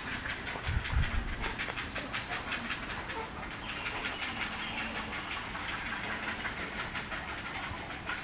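Great blue heron chicks in a rookery clacking and chattering from the nests, a continuous chorus of rapid ticks. It is the noise they make as a parent feeds them. A low thump comes about a second in.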